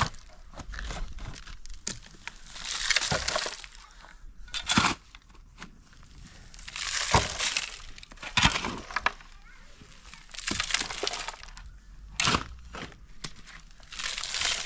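Dry plant material being handled, crackling and snapping in bursts every second or two with sharp cracks among them.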